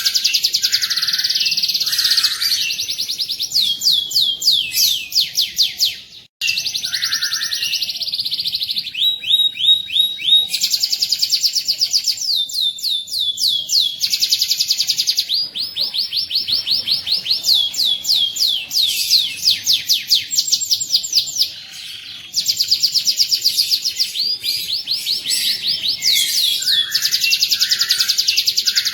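Domestic canary singing in long, fast rolling trills and chirps, one phrase running straight into the next. The song breaks off sharply for a moment about six seconds in and goes quieter briefly around twenty-one seconds.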